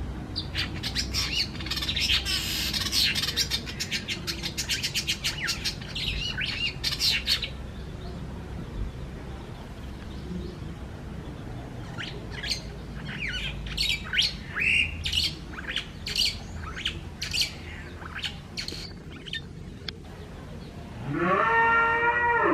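Birds chirping rapidly in two busy spells, the first running to about seven seconds in and the second from about twelve to eighteen seconds. Near the end a louder drawn-out call rises in pitch.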